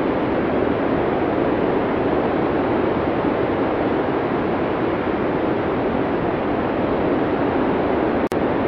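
Blizzard wind sound effect: a steady, dense rushing of storm wind. Near the end it cuts out for an instant with a click, like a splice in the looped recording.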